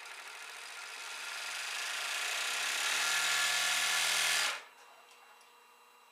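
1945 Merrow A-3DW overlock sewing machine running at speed, stitching a merrowed edge along a patch. It grows steadily louder, then stops abruptly about four and a half seconds in.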